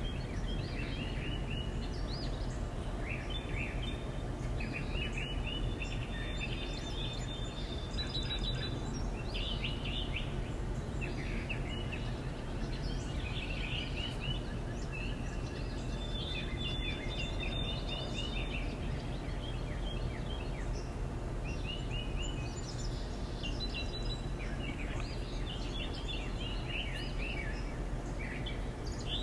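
Small songbirds chirping, many short repeated chirps in quick clusters throughout, over a steady low background rumble.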